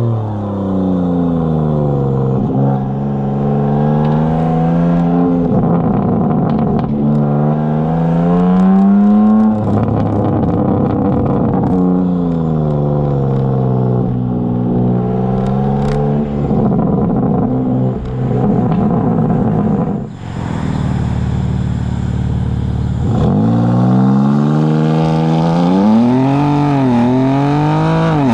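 BMW M4 Competition's twin-turbo S58 inline-six, with high-flow cats and downpipes, pulling hard through the gears. Its pitch climbs and drops again and again with each shift, holds steadier for a few seconds past the middle, then rises and falls quickly several times near the end.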